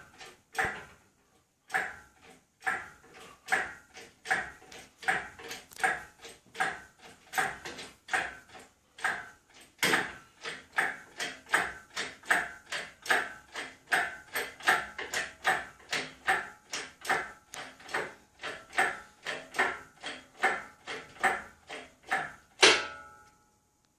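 Hydraulic engine crane being hand-pumped to lift a lathe: a rhythmic metallic clicking, about two pump strokes a second, each click ringing briefly. It ends with one louder clank near the end as the lift nears the top of its travel.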